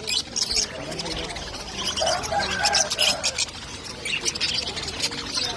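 Domestic birds chirping: many short, high-pitched calls in quick, overlapping succession.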